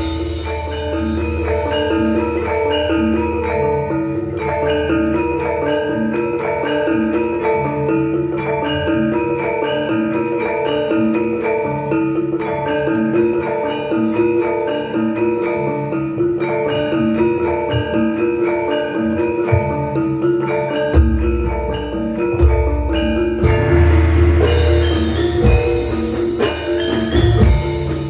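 Javanese gamelan ensemble playing a gending: bronze metallophones sound a steady, dense run of ringing notes. About three-quarters of the way through, a deep low beat comes in and the playing grows fuller.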